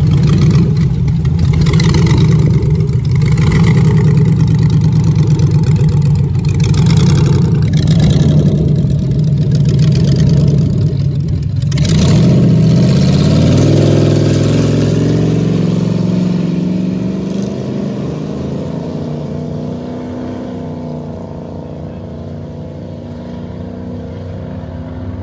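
Drag altered's LS V8 engine running hard at high revs through a drag-strip pass. About halfway through the note breaks off and falls in pitch as the throttle is lifted, then it runs on lower and quieter as the car slows.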